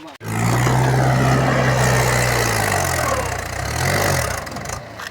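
Mahindra 275 DI tractor's diesel engine running hard; the sound starts abruptly, its pitch sags about three seconds in and wavers, then it cuts off suddenly near the end.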